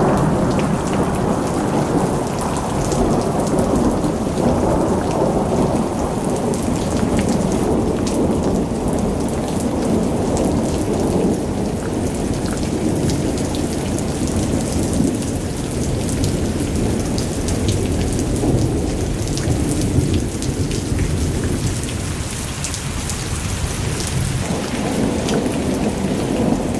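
Monsoon thunderstorm: heavy rain pouring steadily, with a deep continuous rumble underneath and single drops ticking on top.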